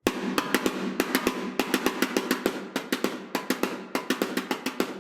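Drum rods (bundled wooden dowels) playing a quick, steady groove on a snare drum, with accented strokes. Each stroke has a short, dry 'chick' attack, softer than a wood stick, over the snare's ringing tone.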